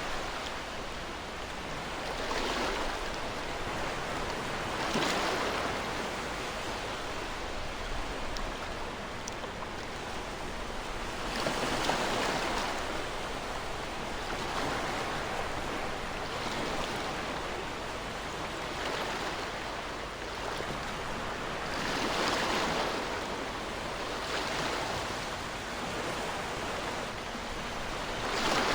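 Ocean waves washing onto a shore over a steady hiss of surf, each wave swelling and falling back every few seconds.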